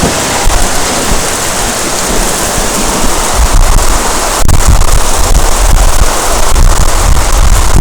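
Heavy thunderstorm rain pouring steadily, with wind buffeting the microphone in low gusts that grow louder about halfway through.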